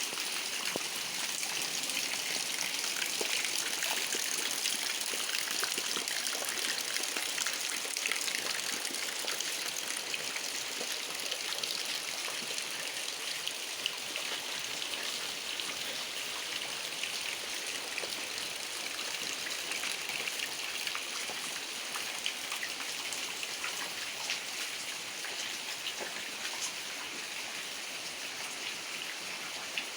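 Heavy rain falling steadily, a constant hiss with scattered sharp drop ticks.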